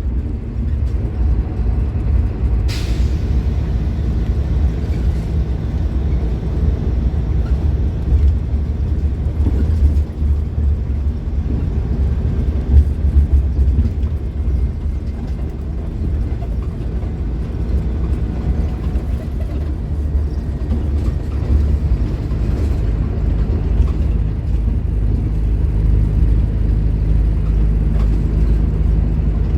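Scania K310IB bus's diesel engine running under way with a steady deep rumble, the pitch shifting a little with load. About three seconds in there is one short, sharp hiss of air, typical of the air brakes releasing.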